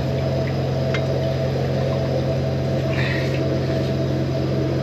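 High-pressure drain jetter's engine and pump running at a steady drone while the jetting hose works along a silted culvert pipe.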